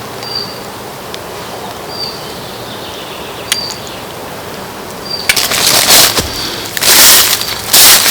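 A small bird repeating a short, high chirp about every second and a half. In the second half come several loud bursts of rustling noise.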